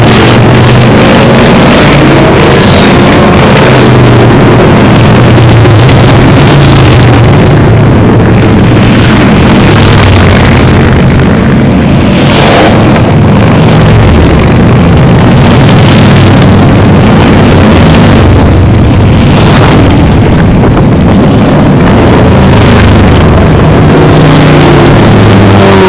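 A procession of motorcycles passing close by, many engines running and revving together, very loud throughout.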